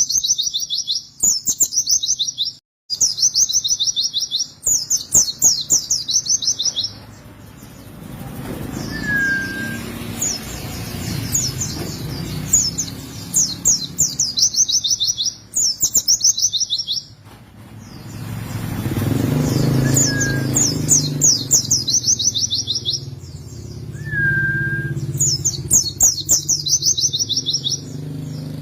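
White-eye (pleci, Zosterops) singing: repeated high, rapid trilled phrases about a second long, each sliding downward, one after another with short gaps. From about a third of the way in, a low rumble runs underneath.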